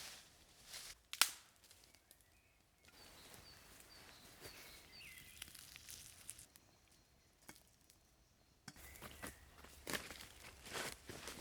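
Faint forest ambience: a single sharp click about a second in, a quick series of short high chirps, then footsteps crunching and rustling on the forest floor in the last few seconds.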